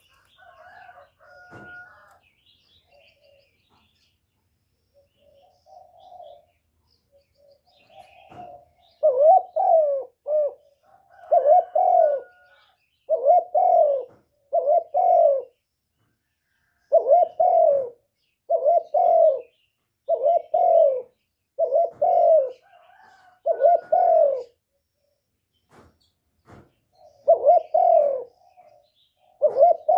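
Spotted dove cooing: a repeated phrase of two or three low coos every couple of seconds. Only faint, scattered calls come in the first few seconds, and there is a short pause near the end.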